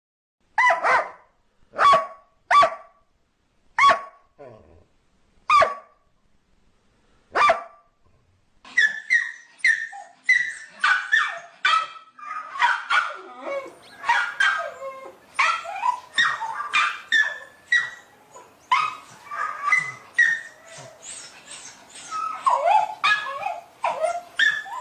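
A dog barking six single barks, one to two seconds apart. From about nine seconds in, a dense, unbroken run of short yips and barks follows.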